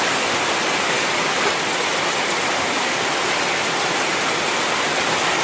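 Heavy rain falling steadily, a dense even hiss of downpour with faint ticks of individual drops.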